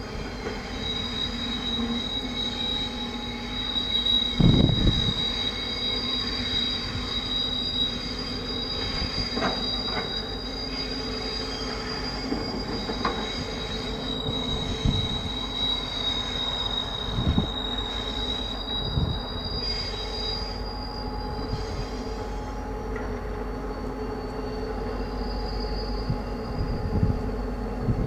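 Wheels of an Irish Rail 071 Class diesel locomotive and its laden timber wagons squealing as the slow train rounds curved track and points: two steady high-pitched squeals that come and go, over the low, steady running of the locomotive's EMD two-stroke V12 diesel. A few dull thumps come as the wheels cross the points, the loudest about five seconds in.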